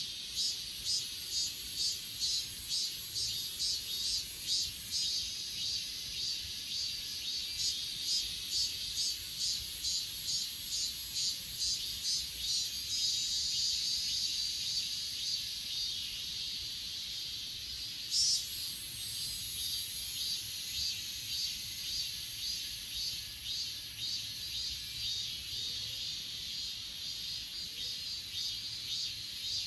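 Crickets and other grass insects singing: high-pitched chirps pulsing about two to three times a second, joined about eighteen seconds in by a continuous, higher buzzing trill.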